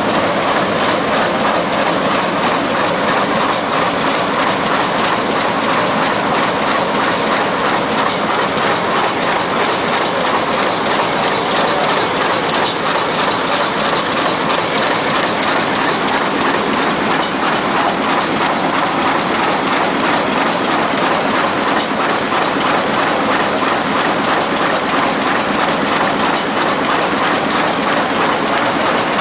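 Best Chen BC-200 automatic book thread sewing machine running steadily, with a dense, rapid mechanical clatter.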